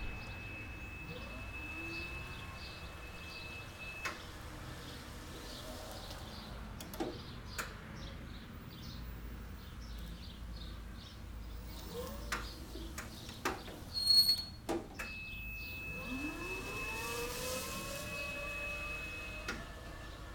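36-volt Taylor-Dunn electric utility cart: a few sharp clicks, then its electric drive motor whining up in pitch as it speeds up, near the end. A steady high-pitched tone sounds at the start and again while the motor speeds up.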